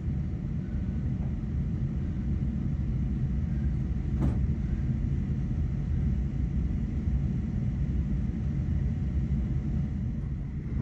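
Steady low rumble of a Krösatåg regional train in motion, heard inside the passenger carriage. A single short click sounds about four seconds in.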